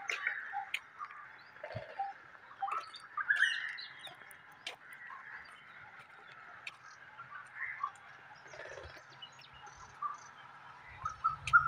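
Birds chirping: short, scattered calls over a steady, high background din.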